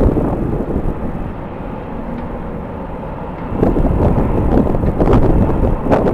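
Strong wind buffeting the microphone over the low rumble of jet aircraft engines, easing for a couple of seconds and then gusting up again about halfway through.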